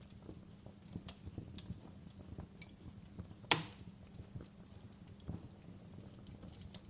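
Wood fire crackling in a fireplace: irregular small snaps over a low steady rumble, with one loud pop about halfway through.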